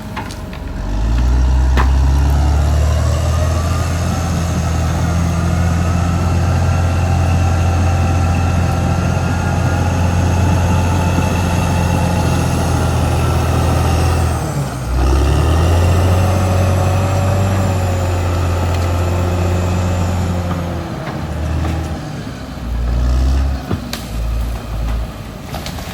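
Caterpillar D6R XL bulldozer working, its diesel engine pulling hard under load with a high whine above it from the running gear. The engine dips for a moment about halfway through, comes back up, and eases off near the end.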